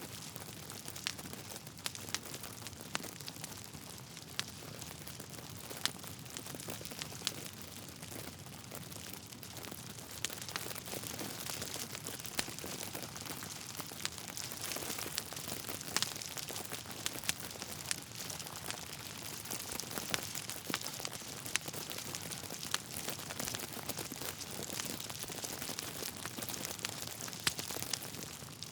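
Wood fire crackling in a fireplace: a soft steady hiss with many small sharp pops and snaps at irregular intervals.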